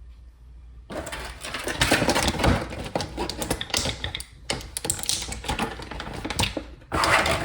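Plastic packaging crinkling and rustling as it is handled, a dense crackle of small clicks starting about a second in, with a brief pause midway and a louder burst near the end.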